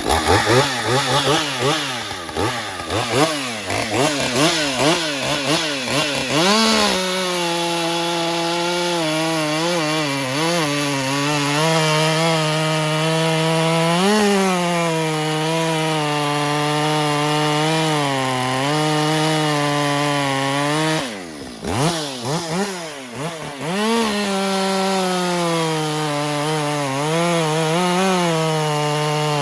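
A 50cc two-stroke chainsaw, a Husqvarna 550 XP, revving up and down a few times, then about seven seconds in settling into a long cut through a log, its engine note wavering under load. Around two-thirds of the way through the revs drop briefly and swing up and down again before it goes back into the cut.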